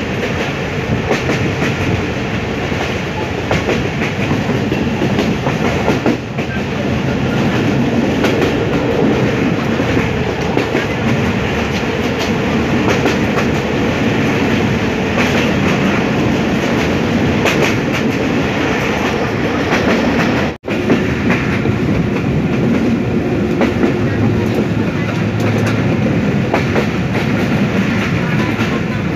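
Passenger train running along the track, heard from inside a carriage: a steady rumble of wheels on rails with clickety-clack over the rail joints. The sound drops out for an instant about two-thirds of the way through.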